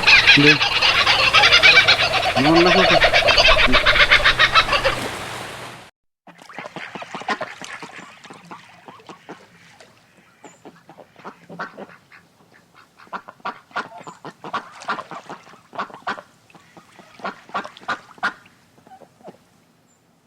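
A flock of waterfowl calling. A loud, dense chorus of rapid calls fills the first six seconds, then cuts off suddenly. Quieter, scattered short calls follow.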